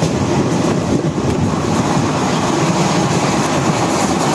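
Train running on the rails, a loud, steady rumble and rattle of wheels and carriages, heard from a window of the moving train as a goods train of covered wagons passes close alongside on the next track.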